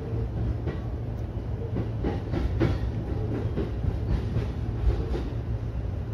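Electric commuter train running on single track, heard from the driver's cab: a steady low rumble of wheels on rail with irregular clacks as the wheels pass rail joints.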